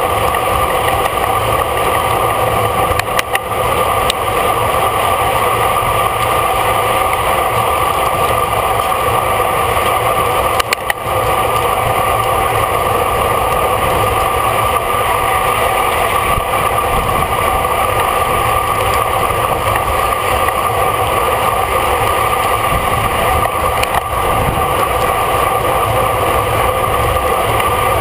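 Steady wind rush on the microphone of a bike-mounted action camera during a road race, with rumbling road and tyre noise and a few short knocks.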